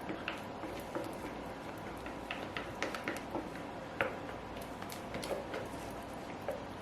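Faint, irregular light clicks and taps of utensils and a container while soap batter is poured into a mold.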